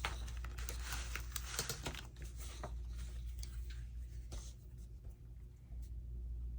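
Faint rustling and scattered light taps of paper being handled and pressed down as a piece is glued into a journal, over a steady low hum.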